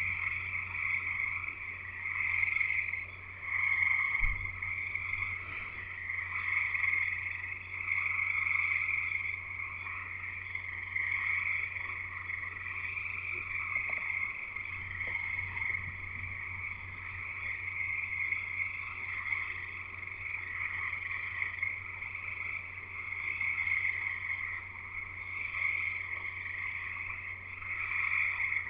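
A dense chorus of many frogs calling together, a continuous high-pitched trilling that swells and eases every few seconds. A steady low hum sits underneath.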